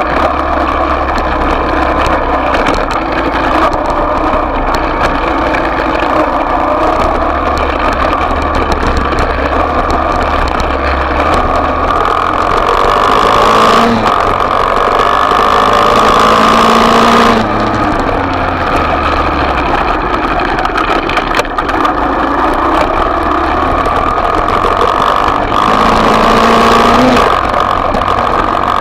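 Small single-cylinder dirt bike engine running under riding load. Its pitch climbs steadily as it accelerates about halfway through, drops sharply as the throttle comes off, then climbs again near the end.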